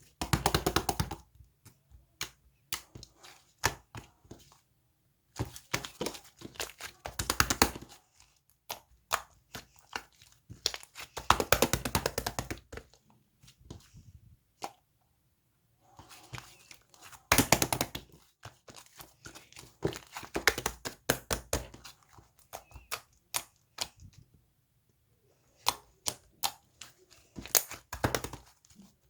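Bursts of rapid clicks and crinkling, each a second or two long, with single sharp clicks and knocks in between and short quiet gaps.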